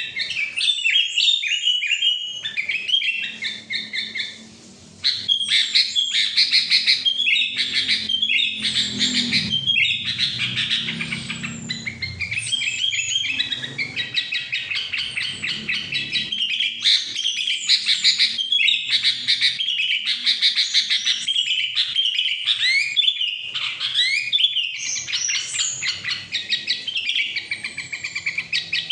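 Sooty-headed bulbul (kutilang) singing almost nonstop in fast trills and chattering phrases of rapid repeated notes and short whistled glides, with a brief pause about four seconds in.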